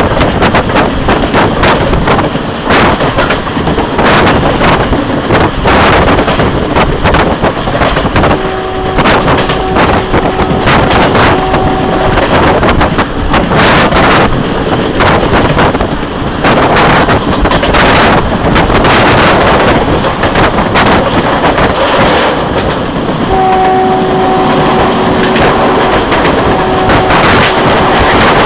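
Passenger train running at speed, heard from an open window: wind rush and clattering wheels on the rails. A horn sounds about eight seconds in, held for a few seconds, and again near the end in several short blasts.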